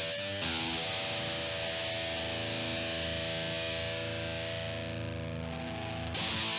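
Electric guitar through a CoolMusic Insane Distortion pedal: a heavily distorted chord struck about half a second in and left to ring out for over five seconds, its top end slowly fading, then a new chord struck near the end.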